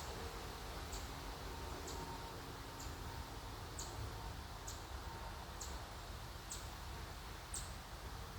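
A small animal's high, short chirp, repeated about once a second, over a steady low rumble.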